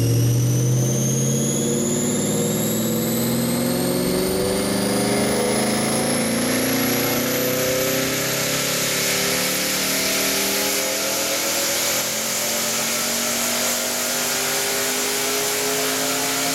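Twin-turbo Mustang with a 1997 Cobra 4.6-litre DOHC V8 making a long full-throttle pull on a chassis dyno: the engine note climbs slowly and steadily in pitch, with a high whine rising along with it.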